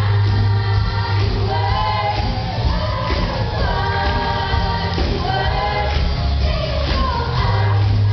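A group of young voices singing together over a backing track with a steady, heavy bass.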